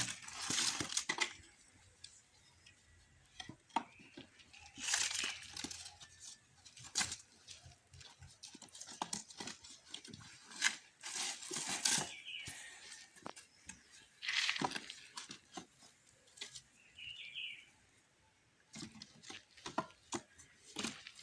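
Firewood being handled and stacked: dry branches and logs rustle, scrape and knock against each other in irregular bursts, with quiet gaps between.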